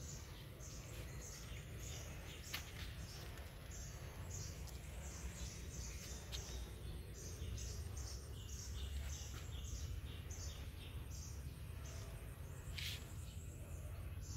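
Small birds chirping repeatedly, short high notes several a second, over a steady low rumble of outdoor background noise.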